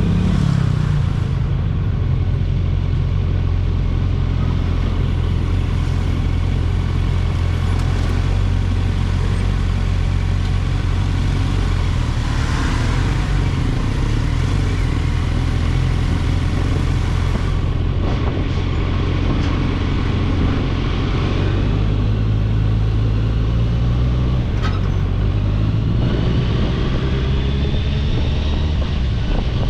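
Kawasaki Ninja 1000SX inline-four engine running under way, a steady low rumble whose pitch shifts a few times and rises near the end.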